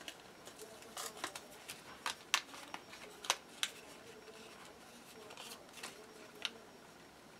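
Handling of a freshly die-cut piece of watercolour paper: scattered light clicks and paper rustles, most of them in the first few seconds.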